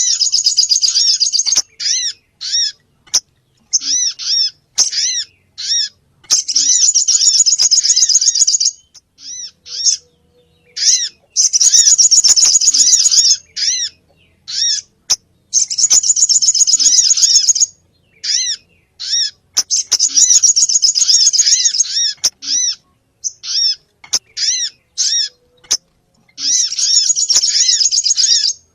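Bird-lure recording of small birds calling, the sogon among them: runs of sharp, high arching call notes alternate every few seconds with dense, noisy chattering bursts about two seconds long.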